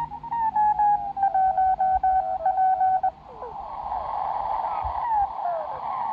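Kenwood TS-120 shortwave transceiver receiving: a Morse code signal as a steady keyed tone for about the first half. It then gives way to narrow band hiss, crossed by short falling whistles as the tuning sweeps past other signals.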